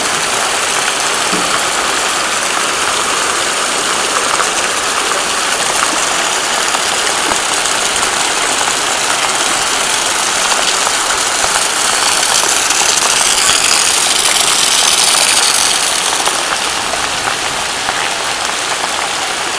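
Heavy rain pouring down, a steady hiss that swells louder for a few seconds past the middle.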